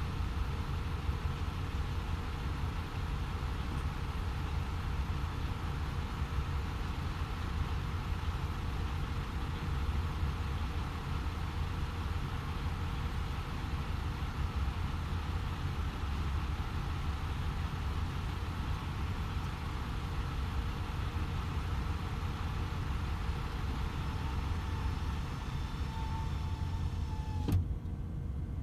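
Steady drone of a DAF XF 510 truck's engine and tyres while cruising on the motorway. Near the end there is a single click, and the sound changes abruptly after it.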